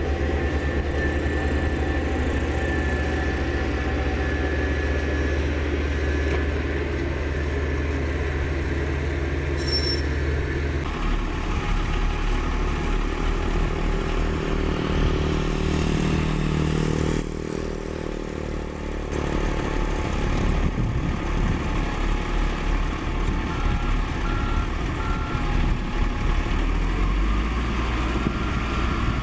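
Komatsu GD555 motor grader's diesel engine running steadily as the machine works, its note dropping and changing about a third of the way through. Three short high beeps sound near the end.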